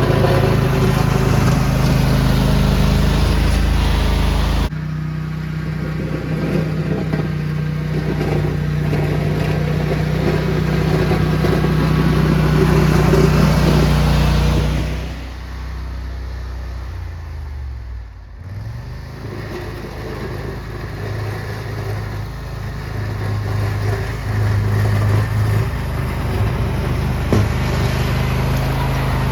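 Small lawn tractor engine running while pushing a snow plow. Its note drops sharply about five seconds in, and around the middle the engine slows with a falling pitch, then runs on at a lower speed.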